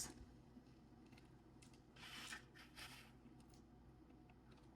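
Near silence, with faint rustling and a few light clicks about two to three seconds in as beads and their packaging are handled.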